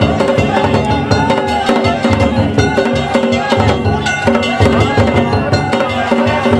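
Danjiri float festival music (danjiri-bayashi): taiko drums and hand gongs beating a fast, continuous rhythm, with the gongs ringing over the drums.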